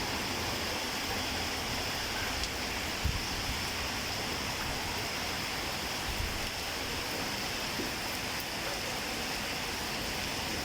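Steady rain falling, an even unbroken hiss, with a couple of brief low thumps about three and six seconds in.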